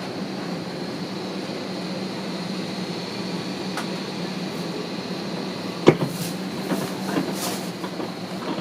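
Steady hum of an Airbus A321 airliner cabin, with a sharp knock about six seconds in and a few lighter knocks and clicks just after.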